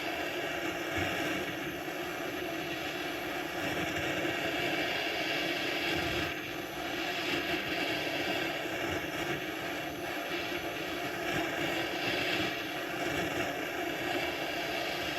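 Blowtorch flame burning steadily, heating a chainsaw crankcase half to free its crankshaft bearing.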